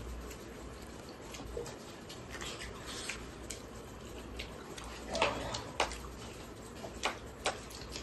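Mukbang eating sounds: mouths chewing fatty pork and bamboo shoots, a run of soft wet clicks and lip smacks, with a few louder smacks in the second half.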